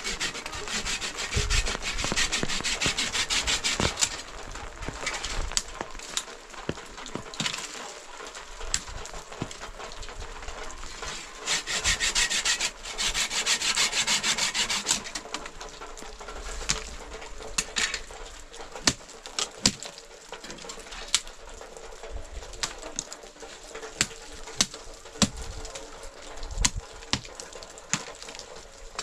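Rhythmic rubbing or scraping on wood in two long bursts, followed by scattered sharp knocks and clicks.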